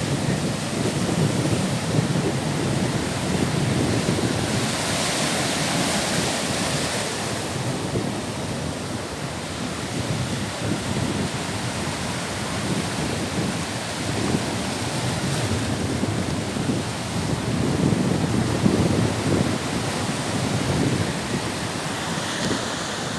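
Baltic Sea waves washing onto the shore, with wind buffeting the microphone in gusts; the hiss of a wave swells up about five seconds in.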